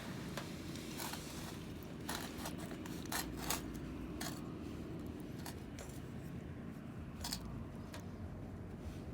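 Scattered light clinks and taps of small objects being handled, clustered around two to three seconds in with one more near the end, over a low steady background hum.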